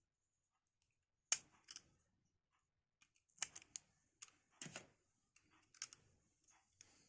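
Sharp clicks and light taps of computer parts being handled during a PC build, one loud click a little over a second in and several more scattered through the rest.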